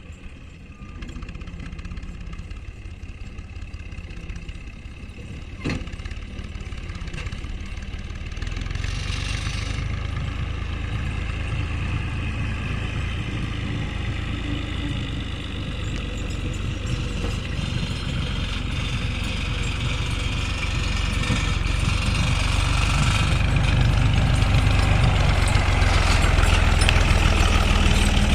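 A vehicle engine running steadily with a low rumble, getting louder over the last several seconds.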